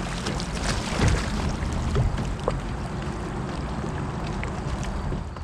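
A kayak being paddled on a river: water splashing and running around the hull, with a few short sharp splashes or knocks.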